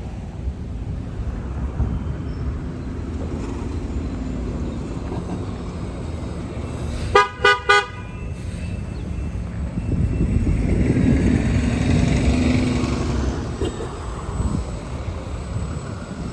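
Road traffic with a vehicle horn tooting three short times in quick succession about seven seconds in; a vehicle then passes, swelling louder and fading.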